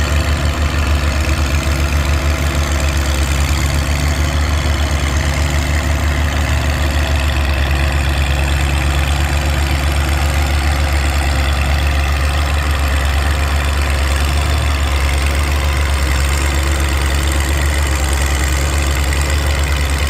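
Oliver farm tractor's engine idling steadily with an even low pulse, waiting at the line before a pull.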